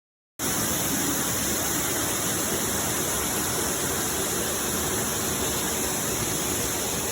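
Waterfall rushing: a loud, steady hiss of falling water that starts abruptly about half a second in and cuts off suddenly.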